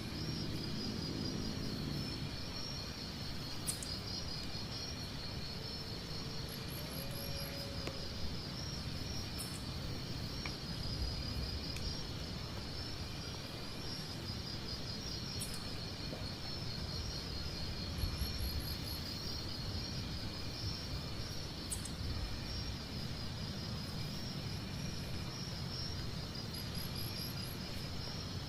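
Steady night chorus of crickets or similar insects, a continuous high pulsing trill, over a low even rushing background.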